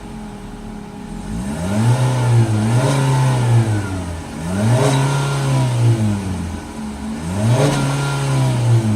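2018 Ford EcoSport SES's 2-litre naturally aspirated inline-four revved up, held and let fall back three times, heard at the exhaust.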